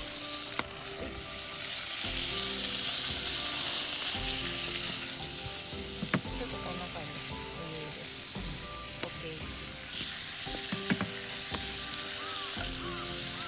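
Food frying in a pan, with a steady sizzle and a few sharp pops, over background music.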